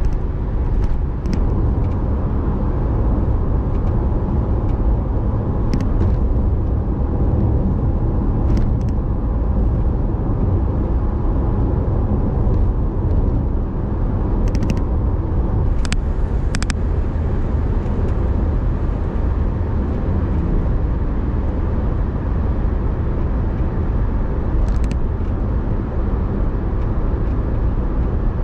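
A car driving along with a steady low rumble of engine and road noise. A few brief sharp clicks sound at scattered moments.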